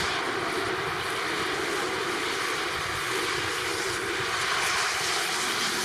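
Jet engines of a landing Airbus A330-300 airliner, a steady rushing noise with a thin whine held at a constant pitch.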